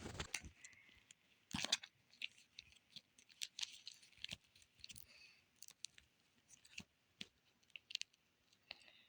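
Handling of an album's packaging and inclusions: crinkling plastic and paper with irregular small taps and clicks, the loudest rustle coming about one and a half seconds in.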